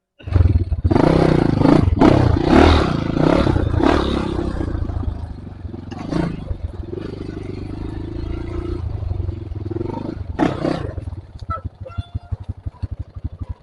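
Trail motorcycle engine revving in loud bursts, settling to a steadier lower run, then a short blip of throttle. Near the end it drops to a slow, lumpy idle with the separate firing pulses audible.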